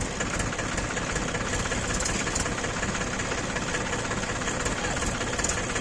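Mahindra tractor's diesel engine idling steadily, with a fast, even knock from its firing.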